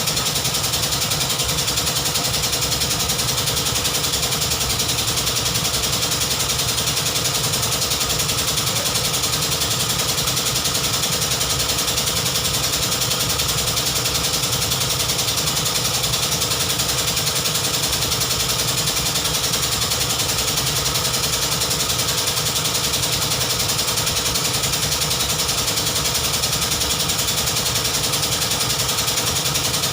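BMW 320i engine idling steadily with a fast, even pulse.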